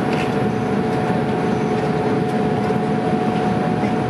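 Steady cabin noise of an Airbus A310 airliner in flight: a constant rumble of engines and airflow, with two steady humming tones running through it.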